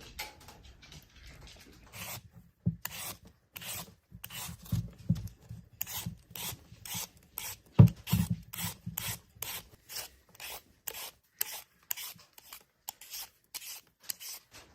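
Rhythmic rasping, rubbing strokes, about two or three a second, with one heavier thump about eight seconds in.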